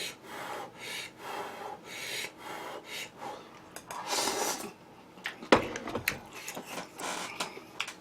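Close-up eating sounds: crisp chewing with a crunch about twice a second, a longer rasping noise about four seconds in, then sharp clicks of utensils against dishes.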